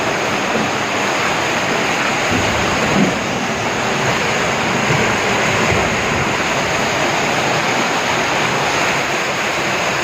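A steady, loud rush of water.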